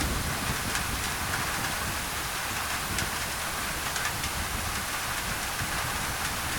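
Steady tropical rain on a thin tin roof, an even hiss broken by a few scattered sharp drop ticks.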